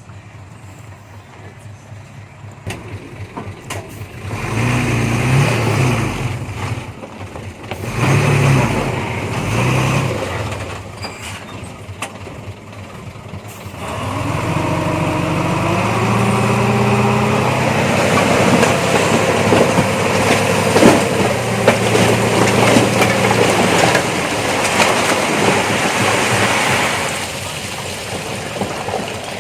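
Heavy diesel machine engine revving in two short surges, then working hard for about thirteen seconds with its pitch rising, before easing back near the end.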